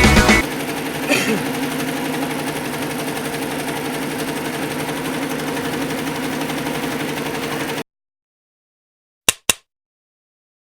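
Automatic sewing machine running with a steady mechanical hum, which cuts off suddenly about eight seconds in. Two sharp clicks follow near the end.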